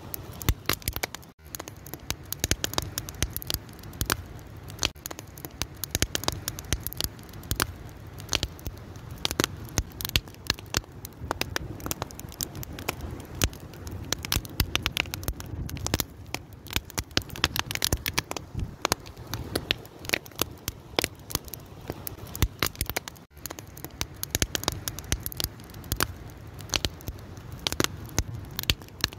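Fire crackling, with dense irregular pops and snaps over a steady low rumble of flames.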